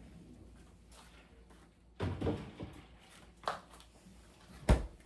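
Kitchen handling sounds: a few knocks about two seconds in, another a second later, and a single sharp thump near the end, like a door or cupboard shutting.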